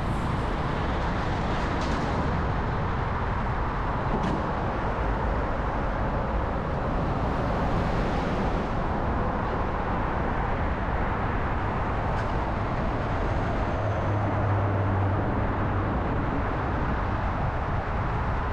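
Steady city traffic and road noise heard from a moving bicycle, with a low rumble throughout and a brief low engine hum about three-quarters of the way through.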